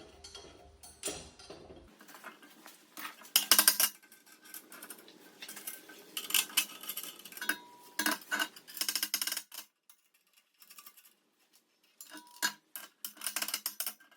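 Steel bolts and nuts clinking and rattling against a steel plate as they are handled and fitted, in several bursts with short gaps. Now and then a struck part rings briefly.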